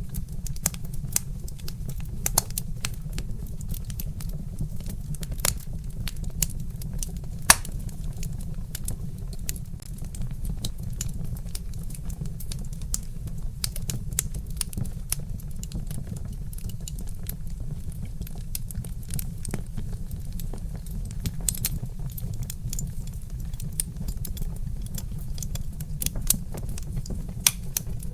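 Wood fire crackling: irregular sharp pops and snaps over a steady low rumble, with one louder pop about seven seconds in.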